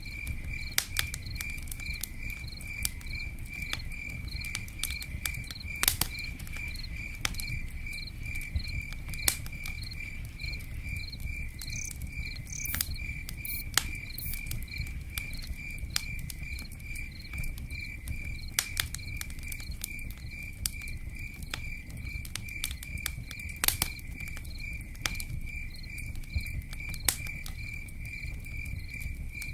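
A cricket chirping steadily, about two chirps a second, over a low rumble with scattered sharp crackles and ticks, as from a campfire and rain.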